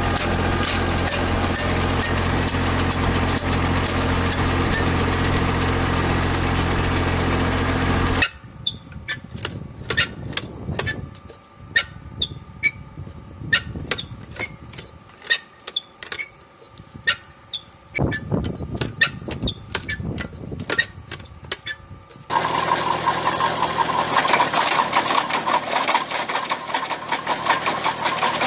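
Engine-driven wood chipper running steadily with a deep hum. About eight seconds in it cuts off abruptly to a quieter stretch of scattered sharp knocks and clicks, and machine running starts again abruptly about twenty-two seconds in.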